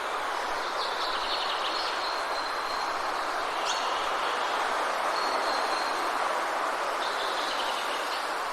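Steady rushing noise of rain falling in a forest, with small birds calling over it: thin high whistles, a short trill about a second in and another near the end.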